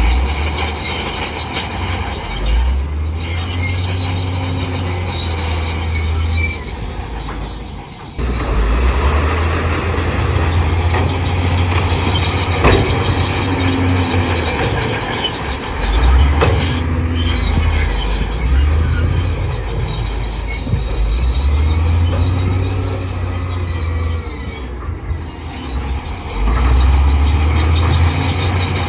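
Crawler bulldozer working: its diesel engine's low rumble swells and eases every few seconds under load while the steel tracks squeal and clank.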